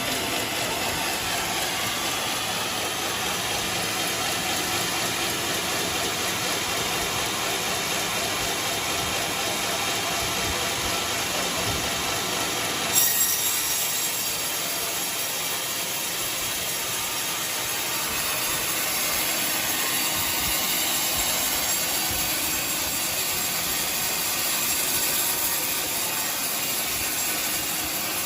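Powered sawmill saw running steadily through coconut wood, a continuous sawing noise, with a short loud knock about halfway through.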